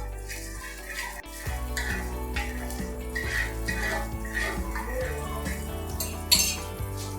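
Metal kitchen utensils clinking and scraping against cookware, with a sharp clatter about six seconds in, over a steady low music bed.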